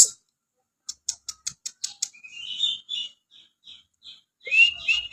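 Kapas tembak bird singing. A quick run of about five sharp, clicking notes leads into a short warbled phrase, then scattered short notes, and a louder, sweeping phrase starts near the end.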